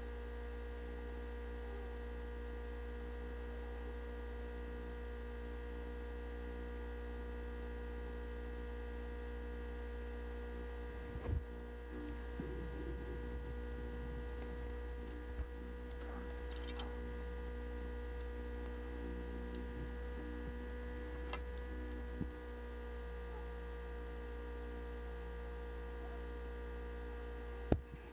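Steady electrical hum with a low drone and several fixed tones above it. Now and then a short faint click or knock.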